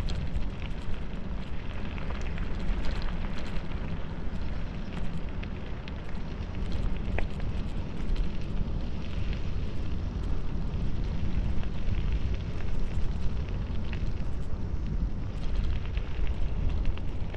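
Wind buffeting the microphone during a bicycle descent, a heavy steady rumble, with the tyres rolling over an unpaved dirt road and scattered small ticks and rattles from the gravel.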